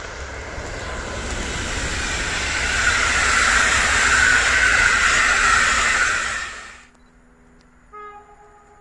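PKP Intercity EU160 electric locomotive and passenger coaches passing at speed: the noise of the wheels and the train's rush grows louder, holds, then cuts off abruptly. After that it is quiet, with a brief, faint tone about a second later.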